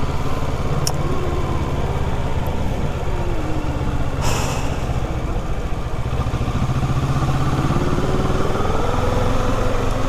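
Kawasaki Ninja 650's parallel-twin engine running under way, its note dipping and rising with the revs. There is a brief rush of noise a little past four seconds.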